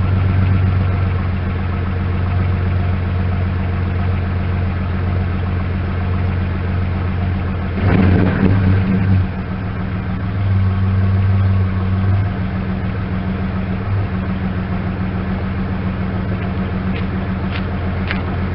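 2002 Ford Ranger's 3.0L Vulcan V6 idling through a Flowmaster Super 44 muffler with an uneven, pulsing beat, blipped briefly about eight seconds in and raised again a little later. The engine is missing on cylinder 4, which the owner puts down to a coil pack that got wet in the rain.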